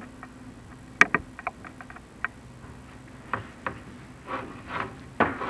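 Chimney inspection camera and its cable knocking and scraping against the clay flue tiles as it is lowered down the flue: a loud click about a second in, a quick run of smaller ticks after it, then a few short scrapes near the end, over a faint steady hum.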